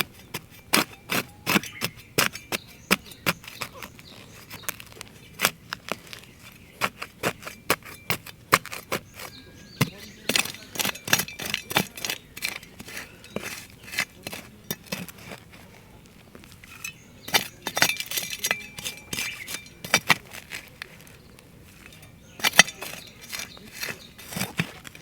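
Hard camp gear being handled: irregular light clinks, taps and clatters of metal or glass items knocking together, in uneven runs.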